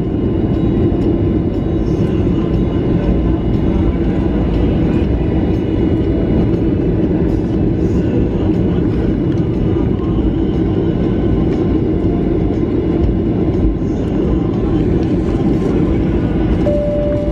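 Steady loud rumble of a Boeing 737-800's jet engines and airframe, heard from inside the passenger cabin. A single chime tone sounds near the end.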